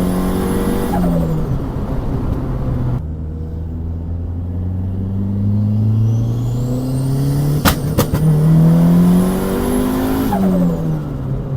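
Turbocharged Honda D16Y8 1.6 engine in a Civic accelerating through the gears: the revs climb and fall back at each shift or lift. A high turbo whistle falls away as the revs drop. Two sharp cracks come about two-thirds of the way in.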